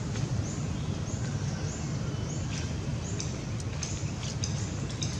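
Outdoor ambience: a steady low rumble with short high bird chirps repeating every half second or so.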